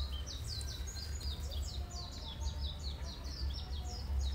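Birds chirping: a dense, continuous run of short, high, falling notes, several a second, over a steady low rumble.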